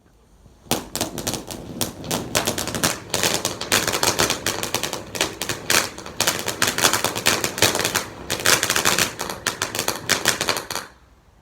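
A firework going off in a fast, continuous run of sharp cracks, like a machine gun, for about ten seconds, then stopping abruptly.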